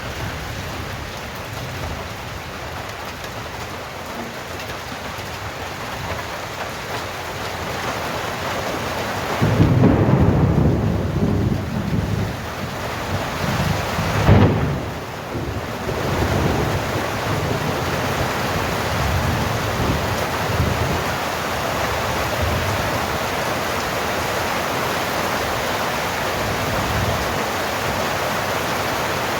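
Steady heavy rain falling, with a roll of thunder rumbling in about a third of the way through. A few seconds later comes a sharp, louder crack of thunder that rumbles away.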